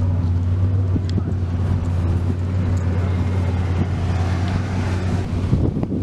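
Car engine idling steadily close by, with wind and handling noise on the microphone. Near the end the steady idle grows uneven.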